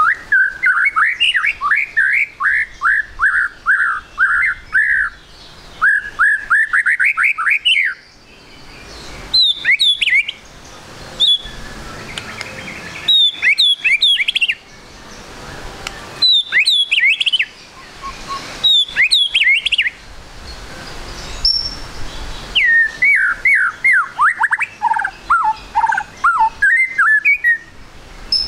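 Juvenile white-rumped shama calling: fast runs of repeated sliding notes at the start and again near the end, with short clusters of high, sharp down-slurred notes every few seconds in between.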